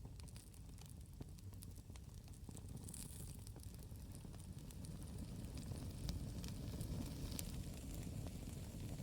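Campfire burning: wood crackling with frequent sharp pops over a steady low rumble.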